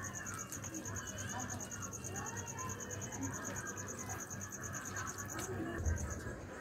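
A cricket chirping in a steady run of rapid, even pulses, breaking off briefly near the end.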